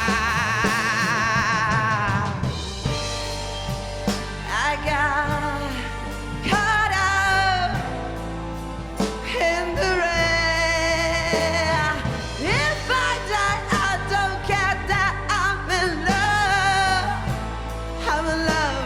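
Slow blues band music with a wordless lead vocal line: long held notes with heavy vibrato and sliding pitch over the band.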